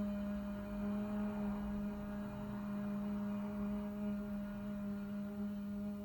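A voice humming a long, steady 'mmm' at one pitch without a break: the sustained 'M' of a vocal vibration exercise.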